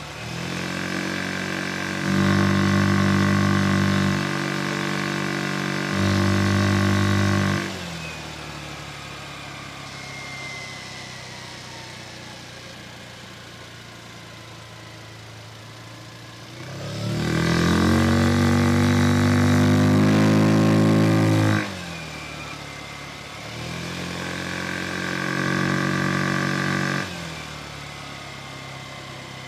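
Vespa Sprint 150 scooter's single-cylinder four-stroke engine pulling under throttle three times, each time holding a steady pitch through its Malossi-kitted CVT and then cutting back sharply. Between the pulls it runs quieter, its pitch slowly falling as the scooter coasts.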